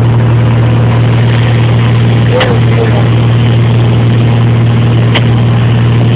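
Cessna 172's piston engine and propeller running with a steady low drone on approach. Two brief sharp clicks cut through it, about two and a half and five seconds in.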